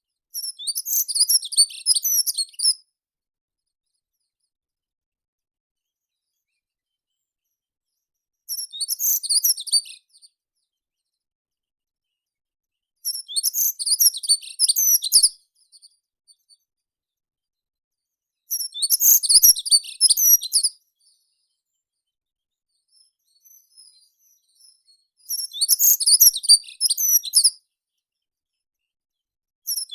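A meadow songbird singing: five phrases of rapid, high-pitched chirping notes, each about two seconds long, with silent gaps of a few seconds between them.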